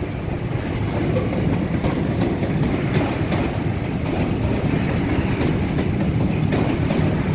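A train rolling across a railway bridge, a steady rumble of wheels on the rails.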